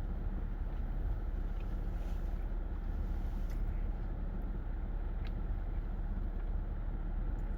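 Steady low background rumble, with a few faint soft clicks.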